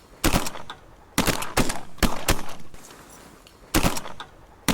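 A volley of shotgun fire from several duck hunters shooting together: about six shots, the first few in quick succession, then a pause and one more shot near the end.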